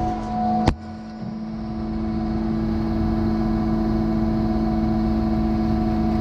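Heavy diesel truck engine of a truck-mounted concrete pump running at a steady speed. A sharp click comes just under a second in, after which the sound dips and builds back up.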